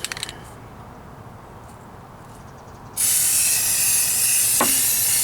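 An aerosol can of primer spraying: a loud, steady hiss that starts suddenly about three seconds in. Before it, a few quick clicks at the very start.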